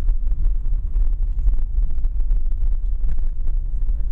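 Steady low rumble of a car driving, heard from inside the cabin, with a constant fine crackle over it.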